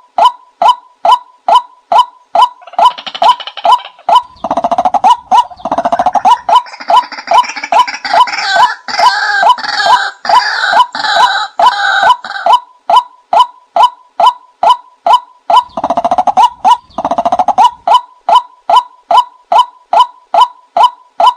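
Recorded call of the ไก่นา (kai na) waterbird played as a hunting lure: a quick, evenly repeated series of short clucking notes, about two to three a second. A fuller, harsher calling joins in over it from about three seconds in until about twelve seconds, and again briefly around sixteen seconds.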